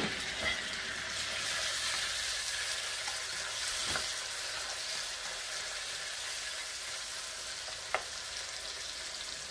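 Chopped tomatoes with garlic, onion and chili sizzling in oil in a nonstick frying pan, stirred with a spatula; a steady hiss with a couple of light knocks of the spatula against the pan.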